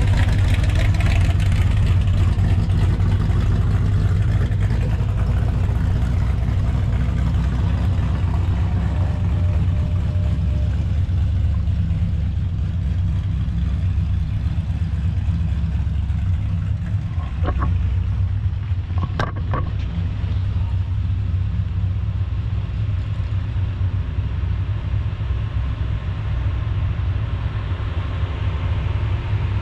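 Deep, steady rumble of classic and hot-rod car engines as the cars drive slowly out of a parking lot. A couple of short sharp knocks come a little past halfway through.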